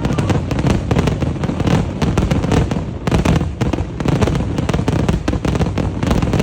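Fireworks display: a dense, unbroken run of rapid bangs and crackles.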